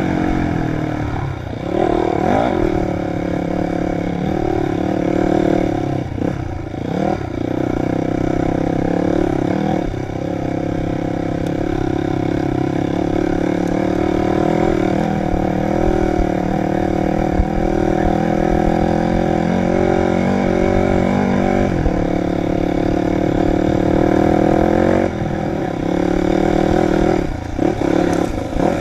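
Dirt bike engine running under constantly changing throttle, its pitch rising and falling, with a few brief drops as the throttle is rolled off.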